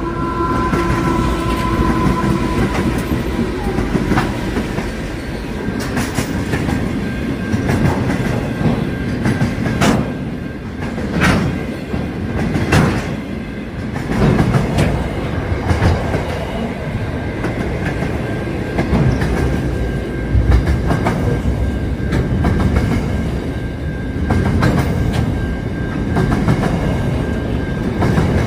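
Pacific National diesel freight train passing close by: the locomotive goes by at the start, then a long string of container wagons rolls past with a steady rumble, the wheels clacking over the rail joints in repeated sharp clicks, over a steady high tone.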